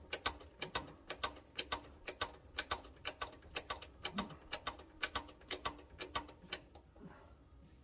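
A quick run of light, sharp metallic clicks from a hand tool working on tractor parts, about three or four a second, stopping about a second before the end.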